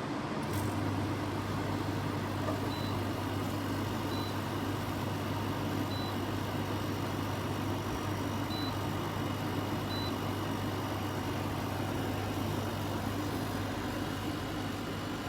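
KGOGO 7000 BTU portable air conditioner running, a steady fan noise. About half a second in there is a click, and a low hum sets in under the fan and holds steady.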